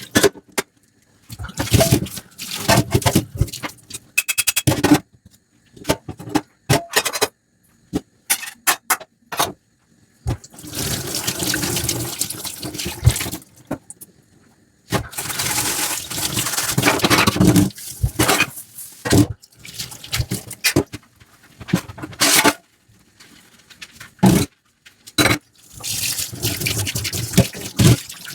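Hand dishwashing at a sink: stop-start stretches of running water and sponge scrubbing, broken by sharp clicks and knocks as dishes are handled, with short quiet gaps between.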